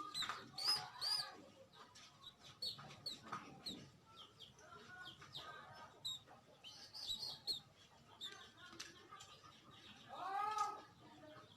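Sooty-headed bulbul calling in a string of short chirps and quick sliding notes. About ten seconds in comes one longer, louder arched call that sounds like a meow.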